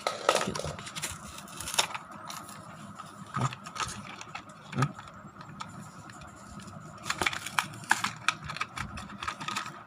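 Toy packaging being worked open by hand: scattered clicks, scrapes and rattles of plastic and cardboard as the push-along Thomas the Tank Engine toy is freed from its box, over a faint steady hum.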